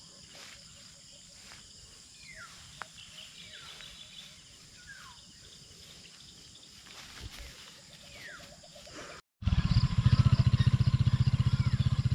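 Rural outdoor ambience: a steady high insect drone, with a bird giving a few short falling calls. After a sudden cut near the end, a much louder low, rapidly pulsing sound takes over.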